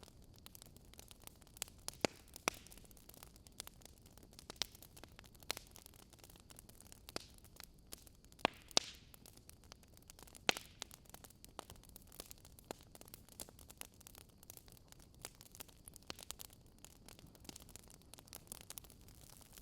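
Campfire burning, with irregular sharp crackles and pops from the wood over a soft steady hiss; a few louder pops stand out, the strongest about two seconds in and near the middle.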